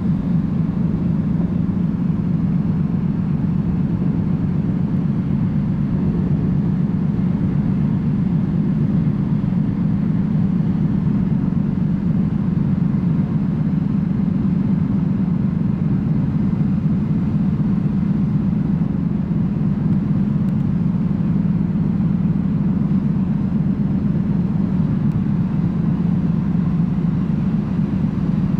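Steady low rumble of a car ferry under way, heard on board, unchanging throughout.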